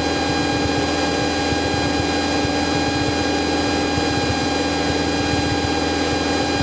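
Cessna 172's engine and propeller droning steadily in cruise flight, a constant hum with several steady tones over an even hiss.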